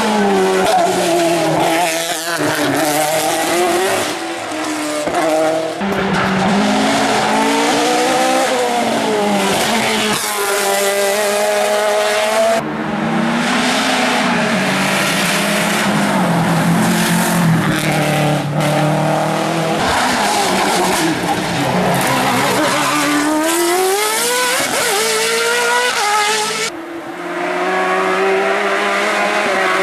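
Racing car engines revving hard, the pitch climbing and dropping again and again as they run up and shift through the gears. The sound changes abruptly several times, as between different cars.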